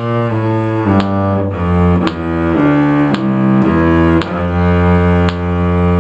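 Cello bowed in slow, sustained notes, changing about once a second, playing the lower part of a simple beginner string piece through its second ending.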